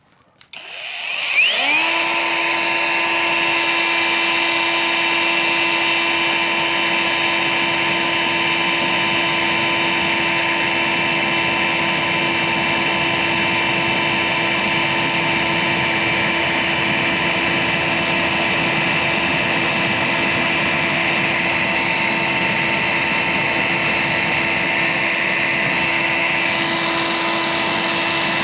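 Angle grinder fitted with a blower attachment, switching on and spinning up over about a second, then running at steady speed with a constant hum and high whine.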